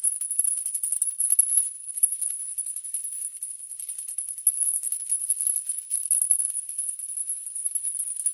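Toy maraca shaken continuously, making a steady high jingling rattle.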